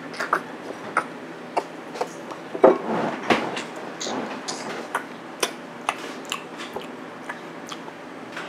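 Eating sounds: a string of irregular sharp clicks and taps, one to three a second, louder in the first few seconds.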